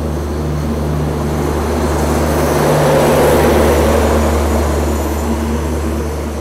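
A passenger train's coaches rolling slowly along the platform as the train pulls in. The rolling noise swells to a peak about halfway through and then eases off, over a steady low engine hum.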